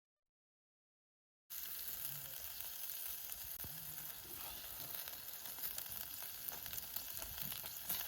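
Food sizzling as it fries in a hot pan, a steady hiss with small crackles that cuts in suddenly after about a second and a half of silence.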